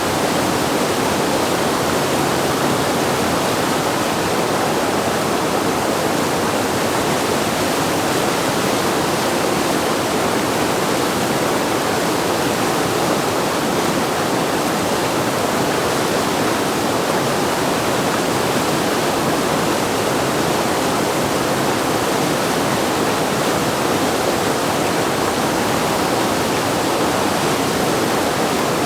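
Steady rushing of whitewater: a river at high flow pouring through a standing wave.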